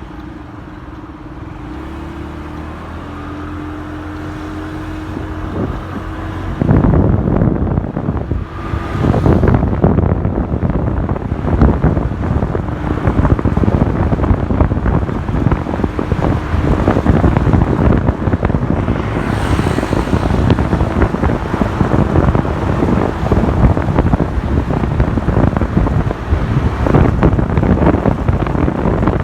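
Motorcycle running at low speed, its engine a steady hum that slowly grows louder. About seven seconds in, loud wind noise rushing over the microphone takes over as the bike rides at speed.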